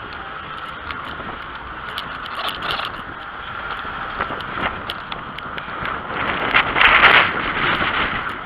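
Riding a bicycle: steady rushing road and wind noise with small clicks and rattles from the bike, swelling louder for about a second near the end.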